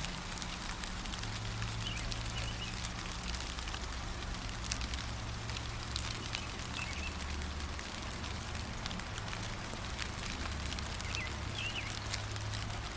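Steady gentle rain, a continuous hiss with the patter of individual drops, over a low rumble. A small songbird gives short chirps now and then: about a second in, twice more in the middle, and a pair near the end.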